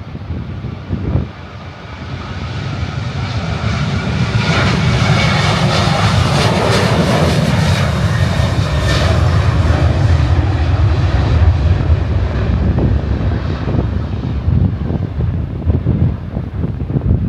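Jet airliner passing close by: its engine roar swells in over the first few seconds, is loudest and brightest about a third of the way through, then settles into a deep rumble as the high hiss fades.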